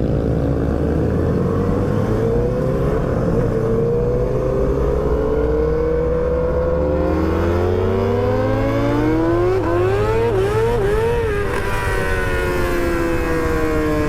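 Sport motorcycle engine heard from the rider's seat, accelerating hard: the note climbs steadily, then goes through several quick rev-and-drop steps as gears are shifted in the middle, and falls away as the throttle is eased near the end. Steady wind rush from riding runs underneath.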